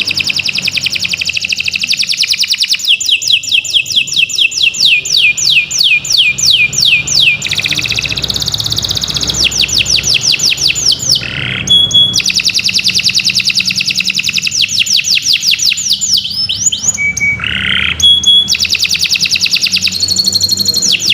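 Domestic canary singing a long, unbroken song made of fast trills, each run a quick string of the same note repeated many times a second, changing to a new trill every few seconds with only short breaks.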